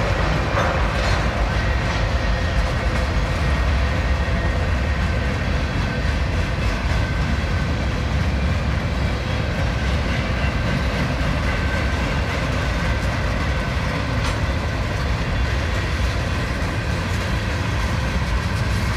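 Freight train of tank cars and boxcars rolling past: a steady low rumble of steel wheels on the rails, with a faint high whine.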